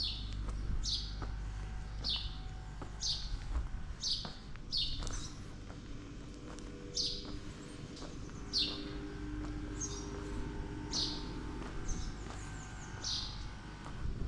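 A small songbird repeating a short, high chirp that falls in pitch, about once a second, with a brief pause partway through.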